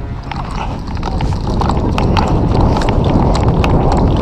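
A person running hard in airsoft kit: quick footfalls and gear rattling close to the microphone, growing louder over the first couple of seconds.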